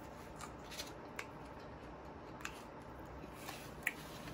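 A person chewing food with the mouth closed: faint, with a few soft, scattered mouth clicks and smacks, the loudest near the end.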